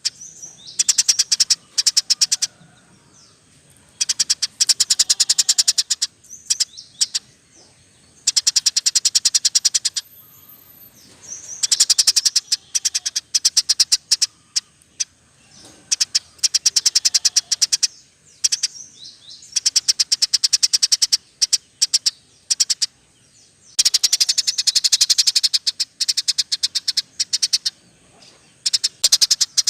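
Small birds chirping in rapid, stuttering trains of one to two seconds with short gaps between, from a mixed recording of canary, lovebird and house sparrow calls.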